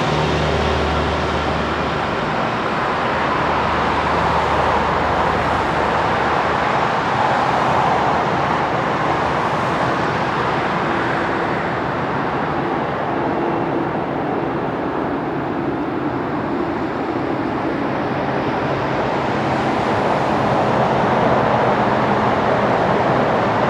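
Jet engine noise from a FedEx Boeing 777F's GE90 turbofans: a loud, steady rushing that slowly swells and eases, with a low hum that fades in the first two seconds.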